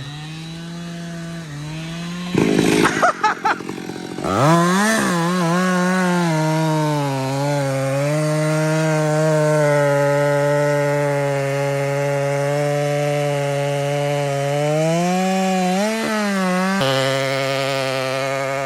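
Two-stroke chainsaw running at high revs and held in a cut, its engine note sagging slightly under load as the chain grinds into very hard Australian pine, which the sawyer says turns to powder instead of chips, like running a sander. A rough, uneven patch about two seconds in before the saw settles into the cut, and the revs rise and drop again near the end.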